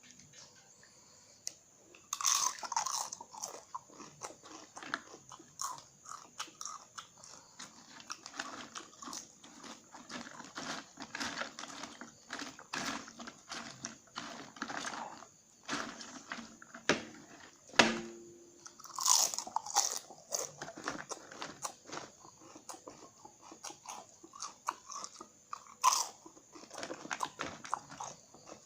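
Someone biting and chewing crispy cassava chips close to the microphone: dense, irregular crunching that starts about two seconds in and goes on, with a few louder bites.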